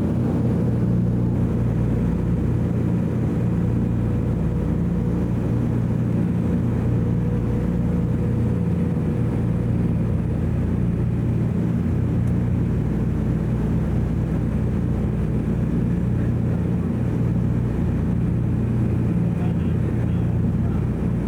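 Steady drone of a Douglas DC-3's twin radial piston engines running at a constant setting, as in cruise. A fainter higher tone fades out about halfway through.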